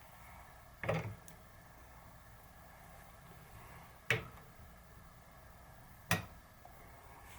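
Three sharp clicks, about 1, 4 and 6 seconds in, from a threaded bearing press as its nut is turned to force an old sealed bearing out of a bicycle freehub body.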